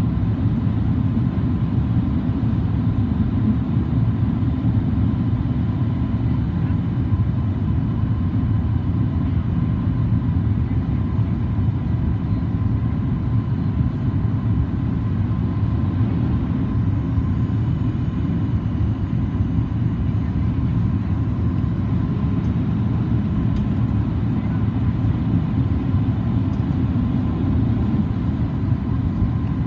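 Steady low cabin rumble inside a Boeing 737 MAX 8-200 in flight, the airflow and CFM LEAP-1B engine noise heard from a seat near the front, with a faint constant higher tone over it.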